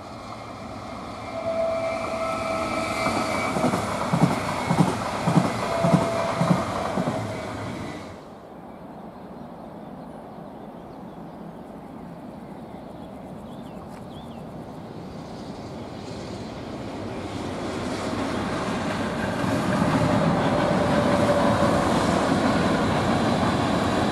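Green electric regional multiple unit (Stadler Flirt) passing, its wheels clacking rhythmically over rail joints under a steady whine. After a sudden cut, a heavier rumble builds as an electric locomotive hauling a train of car-carrier wagons approaches.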